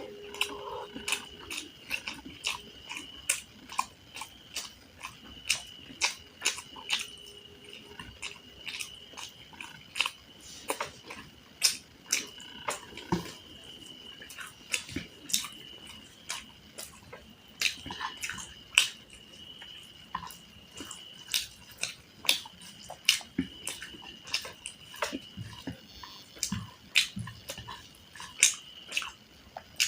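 Close-miked eating: wet mouth clicks and smacks while chewing food, several sharp clicks a second in an irregular stream, over a faint steady high whine.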